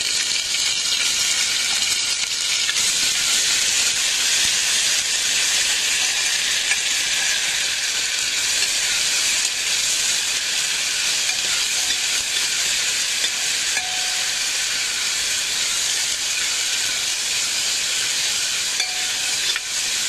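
Ginger-garlic paste sizzling steadily in hot oil with fried onions, stirred with a ladle in a pressure-cooker pot.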